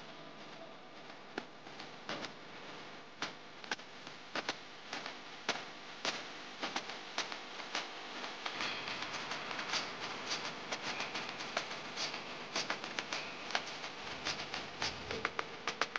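Makeup brushes being washed and handled at a bathroom sink: irregular small clicks and taps, with a steady hiss like running water growing stronger from about halfway.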